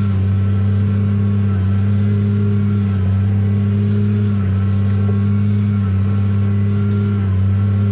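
Farm tractor's diesel engine running at a steady speed, heard from inside the cab as an even drone with a faint high whine above it.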